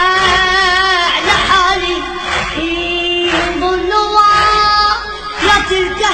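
A high solo voice singing an Arabic devotional poem in an ornamented, wavering melody with long held notes and short breaths between phrases.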